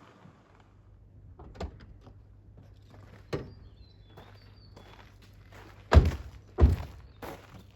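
A few separate dull thuds, the two loudest close together near the end, with faint short bird chirps in between.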